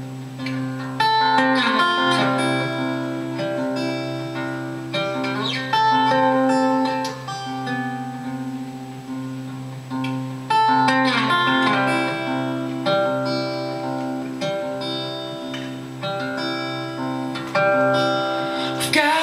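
Acoustic guitar playing an instrumental passage, picked notes ringing out over a steady low sustained bass note.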